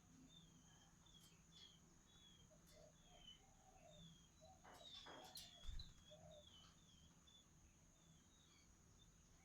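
Faint bird chirping: a series of short, slurred high chirps, a few a second, with some lower notes in the middle. A couple of sharp clicks and a low thump come about five and a half seconds in, over a steady faint high whine.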